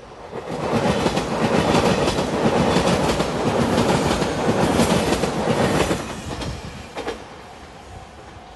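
JR Shikoku Anpanman-liveried express train passing close by, its wheels clicking over the rail joints. The sound is loud for about five seconds, then fades as the train moves away, with one sharp click near the end.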